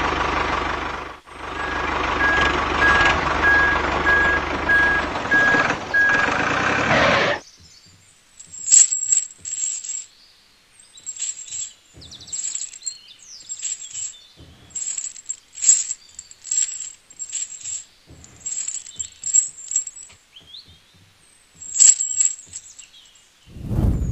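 Tractor engine running with a steady run of reversing-style beeps; it cuts off abruptly about seven seconds in. Then scattered clicks and light rattles follow.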